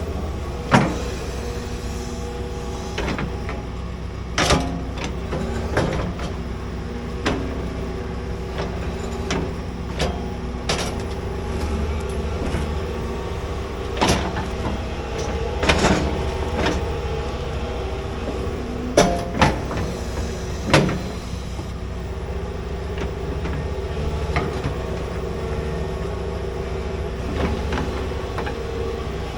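Large excavator running steadily at work, its diesel engine droning under a dozen or so sharp metallic clanks scattered throughout.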